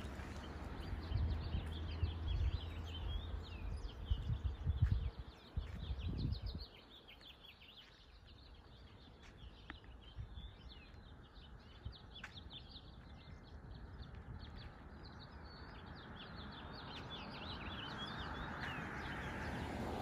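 Many small birds chirping and twittering in a busy chorus of short, overlapping high calls that thin out near the end. A low rumble, the loudest sound, covers the first six seconds or so, and a broad rush of noise builds over the last few seconds.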